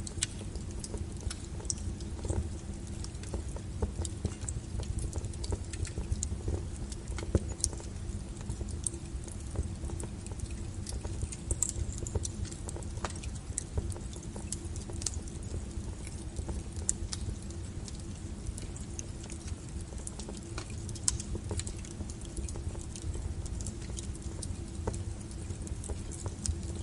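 Wood fire burning with a steady low rumble and frequent irregular crackles and sharp pops of burning firewood.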